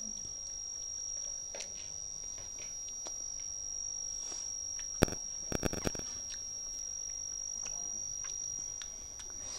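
Child chewing soft ripe papaya with faint mouth sounds, over a steady high-pitched cricket trill. About five seconds in comes a sharp click, the loudest sound, followed by a quick run of smaller clicks.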